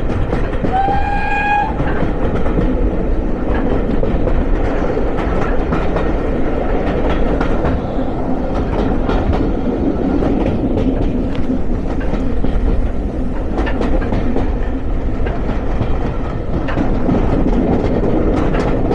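Train running along the track with a steady rumble and a stream of clicks from the rails and wheels. About a second in, a train whistle sounds once, briefly, on one slightly rising note.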